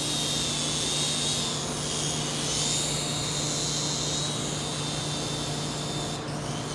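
Small electric motors and rotors of an XB Raptor Copter two-channel toy RC helicopter whining steadily in flight. The whine wavers in pitch and dips briefly near the end.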